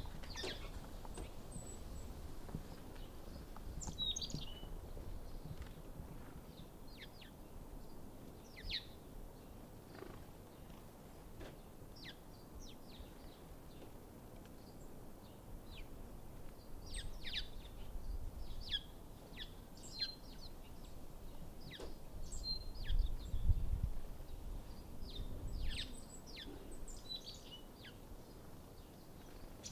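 Many short, high bird chirps and calls scattered throughout, over a low rumbling background that swells briefly about two-thirds of the way in.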